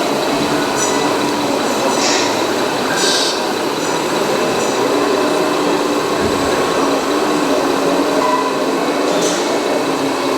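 Radio-controlled scale construction machines at work, a steady mechanical whine and hum of their small drive motors and gearing, changing pitch now and then. Short scraping clatters come about two and three seconds in and again near the end.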